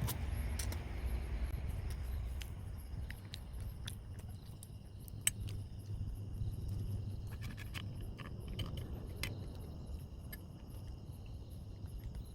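Scattered small clicks and crunches of someone eating a burger and fries, over a steady high chirring of insects. A low rumble fades over the first few seconds.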